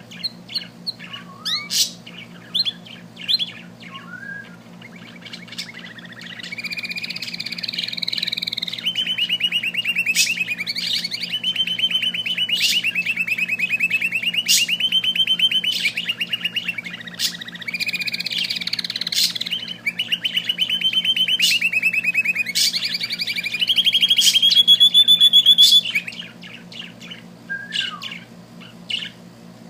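Small bird singing: a few short chirps, then from about five seconds in a long, continuous, rapid trilling warble that runs for some twenty seconds before breaking back into short chirps. A steady low hum sits underneath.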